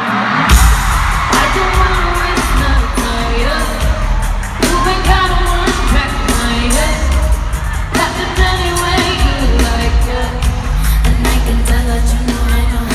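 Live pop concert music in an arena: a heavy bass and drum beat comes in sharply about half a second in, with singing over it.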